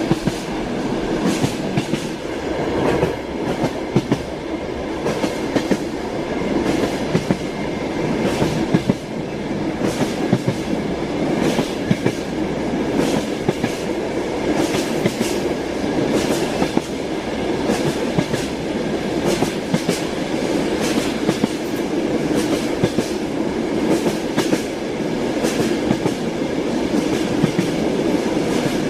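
Train wheels clattering over the rail joints: a steady running rumble with sharp clacks every second or two.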